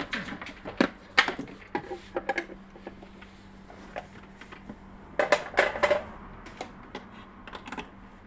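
Irregular metallic clicks and knocks from a Janome 393 sewing machine being handled and adjusted, in two clusters: one in the first couple of seconds and a louder burst of clacks about five to six seconds in.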